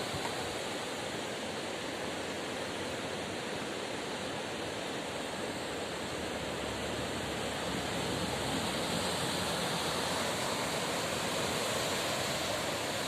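Steady rushing of water, an even noise without breaks that swells slightly about two-thirds of the way through.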